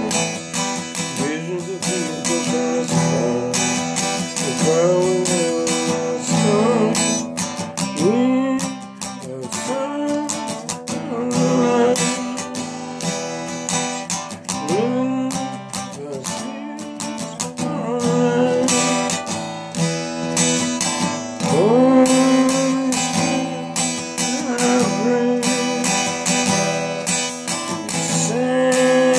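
Strummed acoustic guitar under a melody line that slides up into and between notes: an instrumental break in a worship song.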